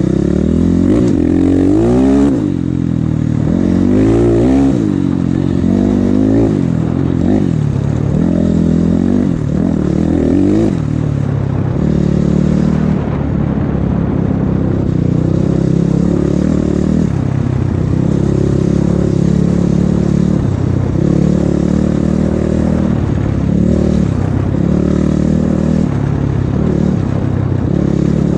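Off-road motorcycle engine riding away, revving up and dropping back several times through the gears for about the first ten seconds, then running at a steadier speed with small rises and dips.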